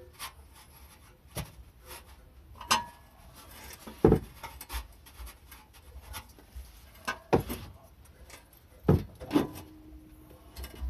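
Hand work on an exhaust muffler: irregular knocks, clicks and rubbing as parts and tools are handled, the sharpest hits about four, seven and nine seconds in. One clank near the end leaves a brief ring.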